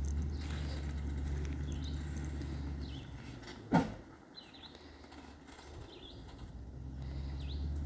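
Low steady drone of a vehicle engine towing a trailer, fading a few seconds in and coming back near the end, with a bird chirping repeatedly. A single sharp knock is heard near the middle.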